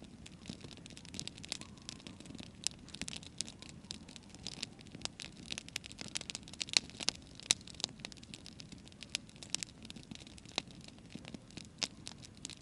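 Campfire crackling: burning wood snapping and popping at irregular intervals, with a run of louder pops about seven seconds in, over a steady low background noise.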